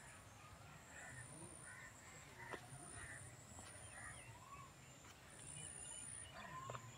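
Faint birds calling: short, arching calls repeated every half second or so over a quiet background, with a soft click or two.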